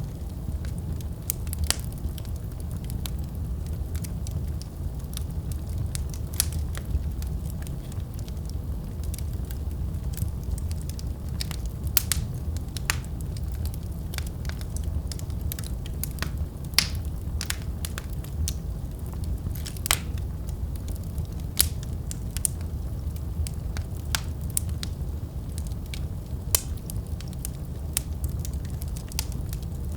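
Wood fire burning with a steady low rumble and irregular crackles and pops, a few of them sharper and louder.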